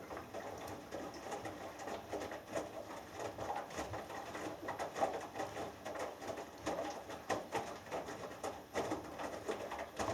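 Front-loading washing machine drum turning during the wash, with wet laundry and water sloshing and tumbling inside in a dense run of irregular swishes and soft knocks. The drum stirs in a burst between pauses in which only a faint hum is left.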